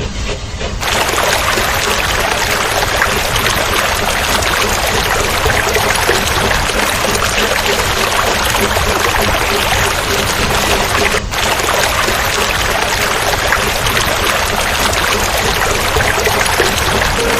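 Steady rushing water noise, like a flowing stream, with a momentary dropout about eleven seconds in.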